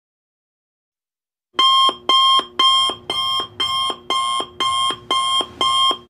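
Electronic alarm clock sound effect: a pitched beep repeating about twice a second, nine times, starting about one and a half seconds in.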